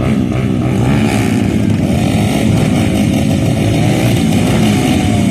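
Motocross dirt bike engines running and revving, their pitch rising and falling.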